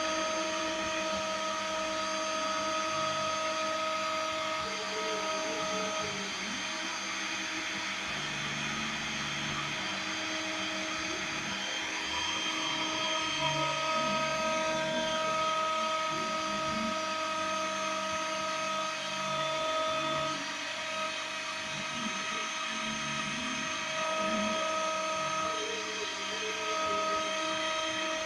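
Small CNC milling machine cutting a printed circuit board: the spindle runs with a steady high whine and hiss, while the axis stepper motors give short, shifting low tones as the tool moves.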